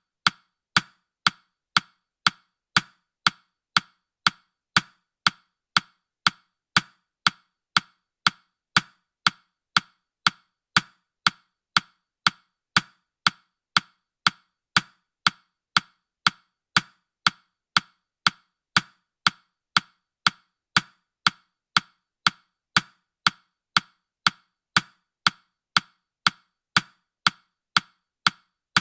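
Steady, even ticking at about two ticks a second: a clock-tick sound effect marking time for a countdown timer.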